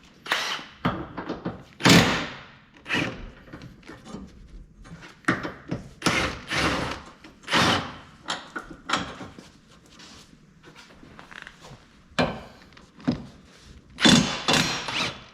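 An irregular series of clunks, knocks and scrapes from work on a car, about a dozen separate short hits with quieter gaps between them.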